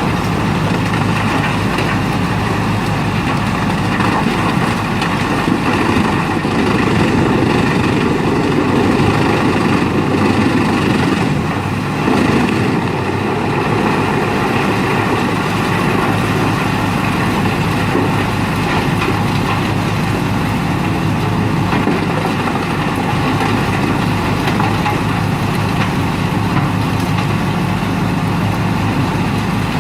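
Wood chipper's heavy engine running steadily, a little louder in the first half with a brief dip near the middle.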